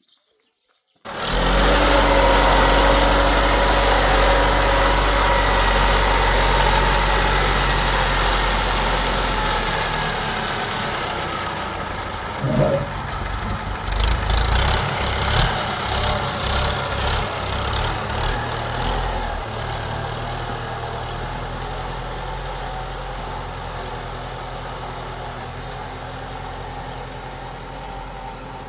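An engine running steadily and loudly, starting abruptly about a second in and gradually getting quieter over the second half, with a few irregular knocks and clicks about halfway through.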